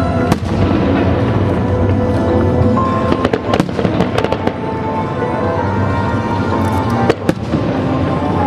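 Fireworks going off over music played on loudspeakers: sharp bangs and crackles, with a thick run of them around the middle and two more close together near the end.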